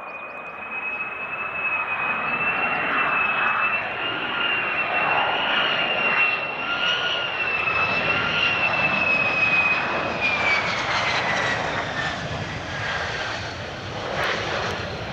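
Military fast jet's engine noise as it flies past: a broad rush with a high steady whine that falls in pitch about ten seconds in as the jet goes by.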